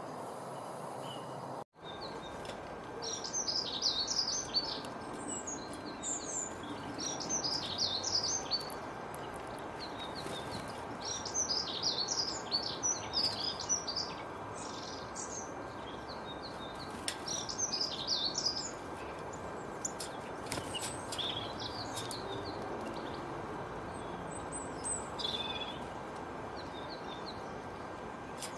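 Small birds chirping and twittering in quick, high bouts with short pauses between them, over a steady background hiss. The sound drops out completely for a moment about two seconds in.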